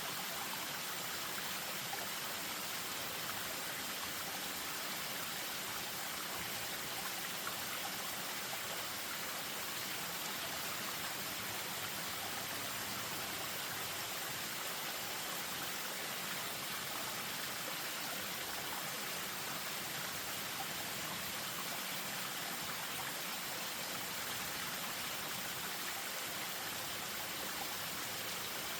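Spring-fed stream spilling over a small waterfall: a steady, unbroken rush of running water.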